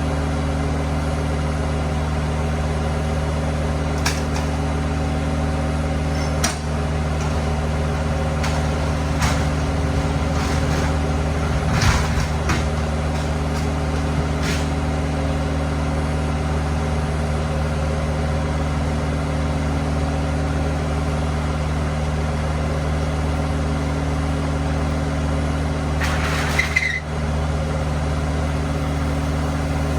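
Steady idling hum of a delivery truck, unchanging throughout. Scattered short knocks and clatters over it, the loudest about twelve seconds in and another brief rattle near the end.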